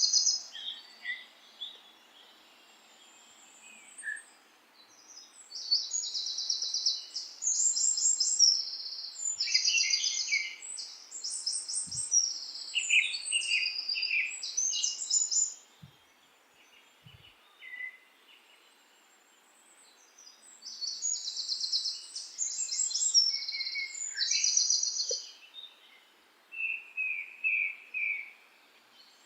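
Songbirds chirping and trilling in bouts of rapid high notes, with quieter gaps of a few seconds between them, over a faint steady background hiss.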